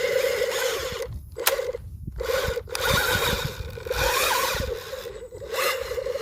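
Small electric motor of a radio-controlled construction machine whining at a steady pitch, cutting out briefly several times and starting again, with scraping noise and faint squeaks over it.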